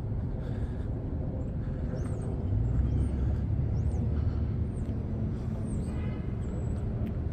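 Steady low outdoor rumble, with short high chirps of small birds now and then from about two seconds in.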